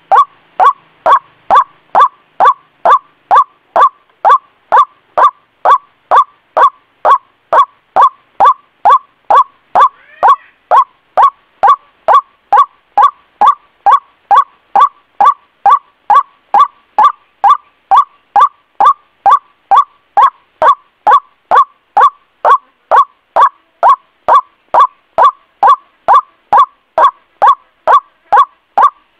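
White-breasted waterhen (ruak-ruak) lure call: a loud short note repeated steadily about twice a second, each call falling in pitch.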